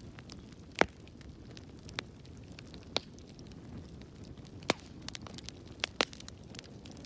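Wood fire burning in a fireplace, with a steady low hiss and irregular sharp crackles and pops. The loudest pops come about a second in, near the end, and shortly before the end.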